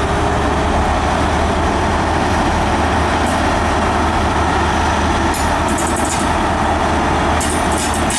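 Diesel train running at the platform, its engine making a steady low hum, with short high squeaks and clicks joining in from about five seconds in.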